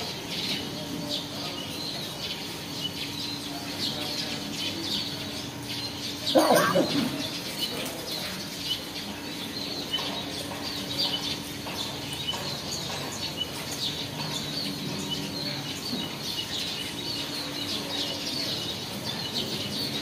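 Birds chirping: quick high chirps repeat throughout over a steady low hum, with one louder burst about six seconds in.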